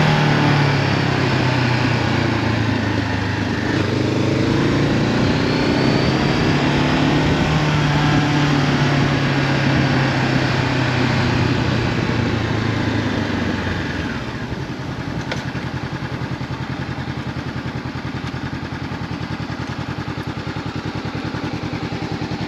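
Honda CB500F parallel-twin with an Akrapovic exhaust running under way, its pitch sliding down and up with the throttle, then dropping to a steady, evenly pulsing idle about two-thirds of the way through.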